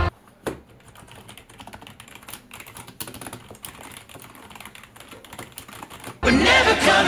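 Keys of a Trust GXT836 Evocx gaming keyboard being typed on, a quick, irregular run of clicks with one louder click about half a second in. Background music comes back in loudly near the end.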